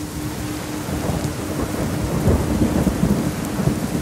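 Steady rain with a low rumble of thunder that swells about a second in and is loudest around the middle. Under it runs a steady low tone pulsing about four times a second: a theta 4 Hz isochronic tone.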